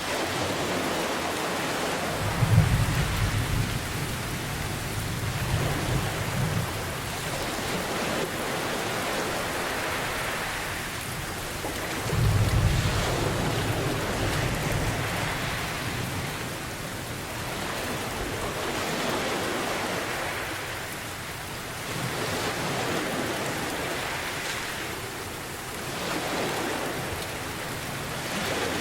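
Steady heavy rain with two low rolls of thunder, the first starting about two and a half seconds in and the second about twelve seconds in, each rumbling on for a few seconds. Ocean waves wash in slow swells every few seconds underneath.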